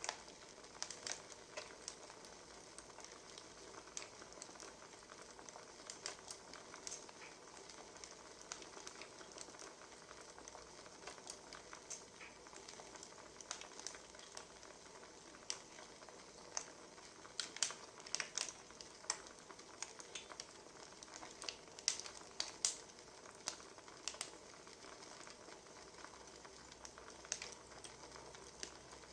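Wood fire crackling: irregular sharp pops and snaps over a soft steady hiss, with a flurry of louder pops about two-thirds of the way through.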